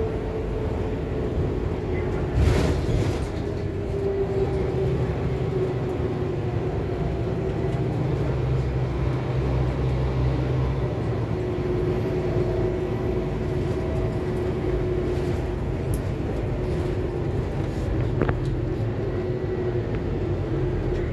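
Cabin noise aboard a 2021 Scania K280UB4 bus under way: a steady low rumble with a whine that drifts a little in pitch. There is a knock about two and a half seconds in and a sharp click near the end.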